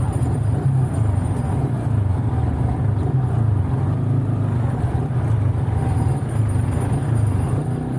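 Motorcycle riding at a steady speed: a steady low engine hum with road and wind noise, recorded through an Insta360 One R action camera's microphone with its wind-noise reduction.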